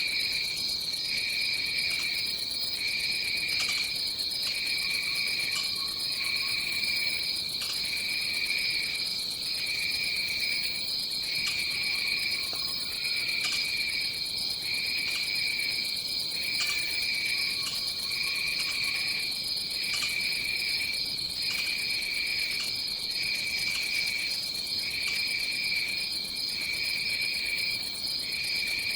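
Tropical rainforest insect chorus: a steady high-pitched drone, with a second, lower trill pulsing on and off about once a second. Now and then a faint, soft call sounds lower down.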